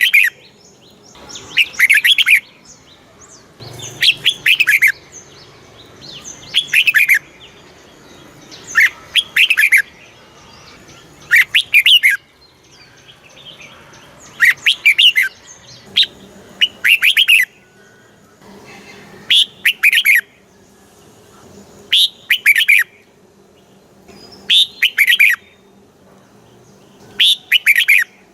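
Red-whiskered bulbul singing: short, loud phrases of a few quick warbled notes, repeated about every two seconds.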